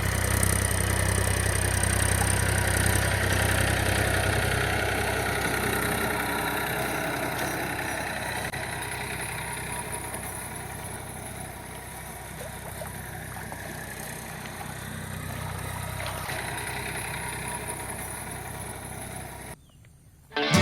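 An engine running steadily at idle, gradually getting quieter, then cutting off about a second before the end.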